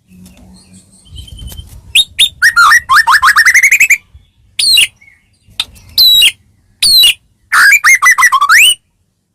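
White-rumped shama (murai batu, Medan strain) singing loudly in varied whistled phrases. About two seconds in comes a fast run of notes climbing in pitch, followed by short phrases with pauses between them. This is the 'gacor' song played to provoke other shamas into singing.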